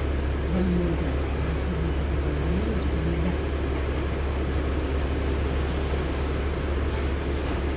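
Inside a LiAZ-6213.65 articulated city bus on the move: a steady low engine and road drone, with a faint wavering hum over it during the first three seconds.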